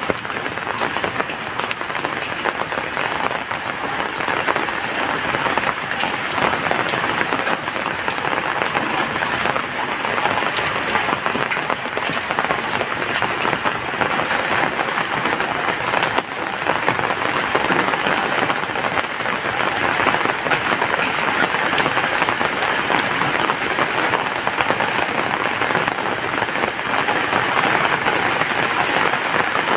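Heavy rain falling steadily, a dense, even patter of raindrops.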